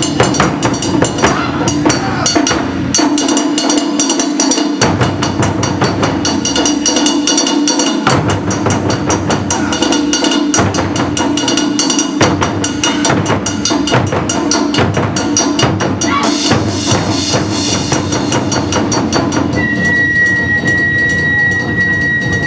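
Japanese taiko drum ensemble playing: dense, fast strokes, with sharp wooden clicks of sticks and deep drum beats underneath. A steady high tone enters near the end.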